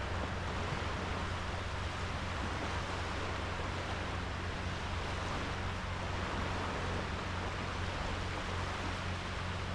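Sea waves washing onto a sandy beach, a steady rushing surf noise with a low rumble and no distinct single breakers.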